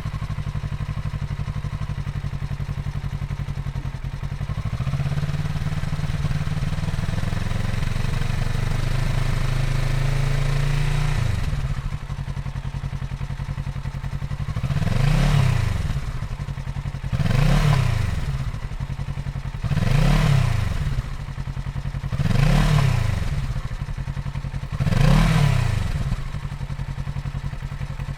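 Kawasaki Z650RS 649 cc parallel-twin engine idling through its exhaust. The idle rises slightly a few seconds in and settles back about eleven seconds in. Then come five throttle blips about two and a half seconds apart, each revving up and falling back to idle.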